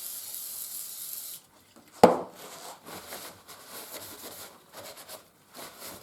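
Parts of a freshly painted Record No. 3 bench vice rubbing and scraping as they are worked together, the new paint making them drag and squeak. One sharp knock about two seconds in, then a run of short scrapes.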